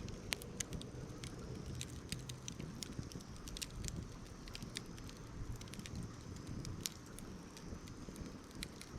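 Campfire burning in a fire pit: irregular sharp crackles and pops over a steady low rumble.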